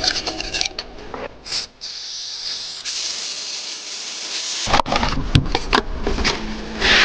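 A steady high hiss lasting about two seconds, between scattered clicks and a run of sharp knocks and thumps.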